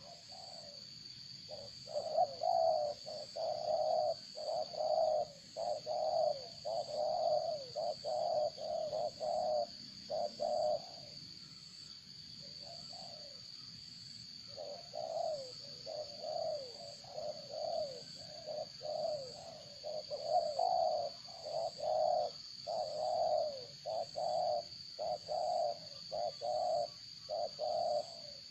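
A bird calling in two long runs of short, repeated low notes, with a steady high-pitched tone underneath.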